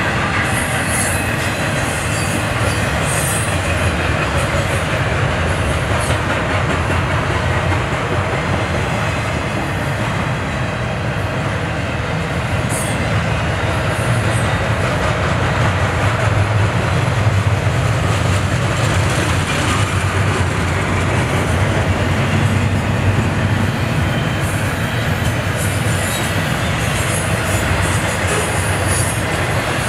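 Double-stack intermodal freight train's loaded container well cars rolling past: a steady rumble and rattle of steel wheels on the rails, with brief high wheel squeals now and then.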